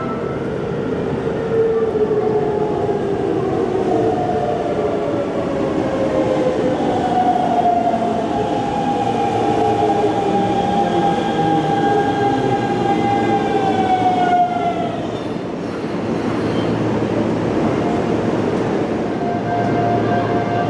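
Hanshin Railway electric train braking into the station: its traction motors whine in several tones that slowly fall in pitch over running noise, and the whine cuts out about fifteen seconds in as the train stops. A fainter steady tone follows near the end.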